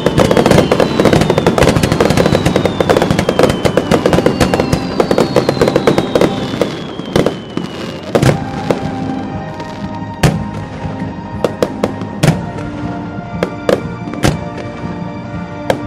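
A fireworks display: dense, rapid crackling with long falling whistles for about the first half, then thinning about eight seconds in to separate sharp bangs, with background music of held notes beneath.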